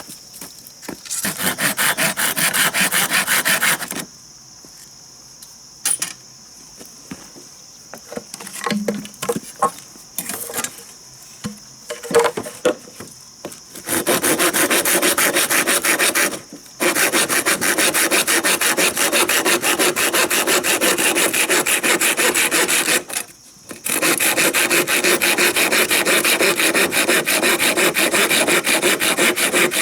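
Hand saw cutting through wood with fast, even strokes. Short bursts of sawing come first, then several seconds of scattered knocks and taps, then long runs of sawing through the second half, pausing twice briefly.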